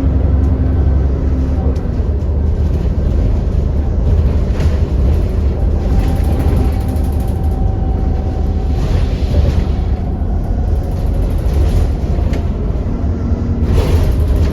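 Inside an ADL Enviro400 double-decker bus on the move: the engine's steady low rumble with a steady whine running through it, the bus's 'hoover' sound, over light rattling from the body and fittings.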